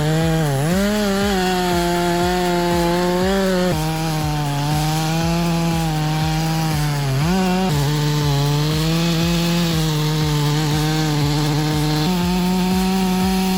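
Chainsaw engine running at high revs while cutting wood. Its pitch holds steady and briefly sags about half a second in and again around seven seconds in, as the saw bogs under load in the cut.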